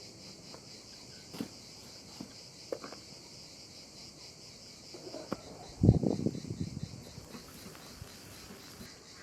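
Crickets chirping steadily in a fast, even pulse. A few light knocks, and a louder bump with some clatter about six seconds in.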